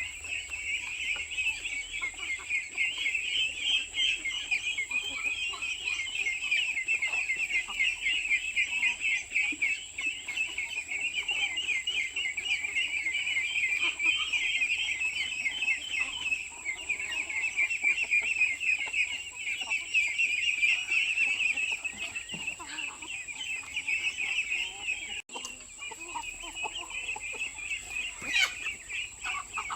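A flock of chickens calling continuously, many overlapping clucks at once.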